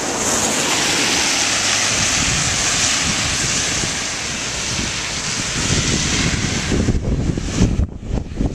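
Hurricane wind buffeting the microphone, with a long rushing hiss that swells at the start and fades after about seven seconds, leaving gusty low buffeting near the end.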